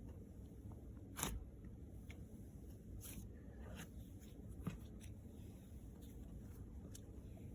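Hands squishing and stretching a soft slime for ASMR, giving a few faint sticky pops and clicks, the loudest about a second in.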